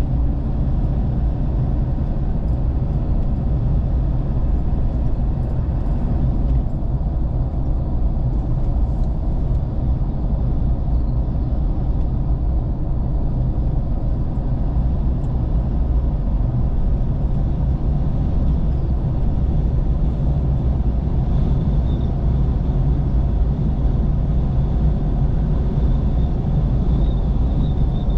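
Steady low rumble of a vehicle on the move: engine and road noise, unchanging throughout.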